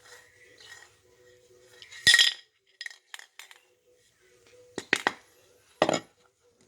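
Spray paint can shaken in a few short, uneven bursts, the mixing ball clinking against the inside of the can; the loudest burst comes about two seconds in, with more clinks near the end.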